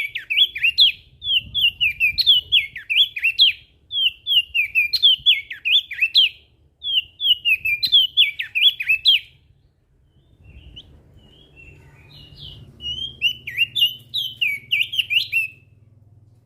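Crested white-eye (opior jambul) singing: fast runs of high, quick down-slurred chirping notes in phrases a few seconds long. The song goes faint about ten seconds in, then picks up again near the end, over a faint low rumble.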